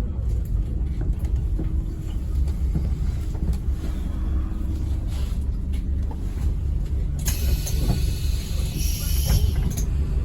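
Cabin sound of a 2009 Scania N270UD OmniCity single-decker bus running: a steady low rumble of engine and road with light rattles. About seven seconds in, a burst of hissing lasts a couple of seconds.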